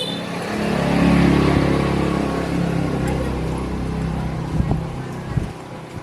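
A motor or engine hum that swells about a second in, then slowly fades away, with a few knocks near the end.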